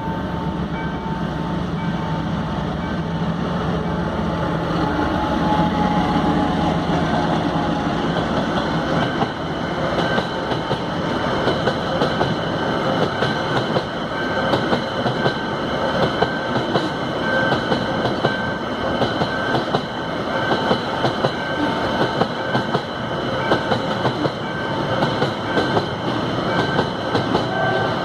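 Freight train passing: the diesel locomotive's engine is heard for the first several seconds. From about nine seconds in, the container wagons roll by with a rhythmic clickety-clack of wheels over the rail joints and thin, steady, high wheel squeal.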